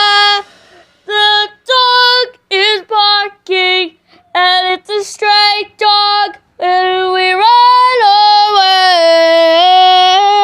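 A high-pitched voice singing a melody: a string of short, separate notes, then long held notes that step up and down in pitch.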